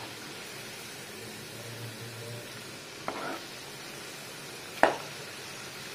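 Mushroom pakoras in besan batter deep-frying in hot oil, a steady sizzle. A metal slotted spoon knocks against the aluminium pan twice, lightly about three seconds in and louder about five seconds in.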